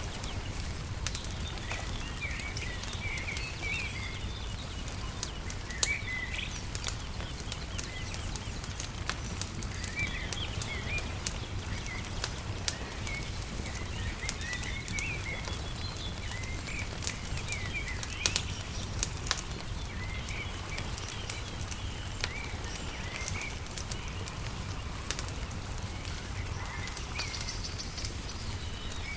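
Wood fire crackling with scattered sharp pops, over a steady low rumble, while small birds chirp in short twittering phrases throughout.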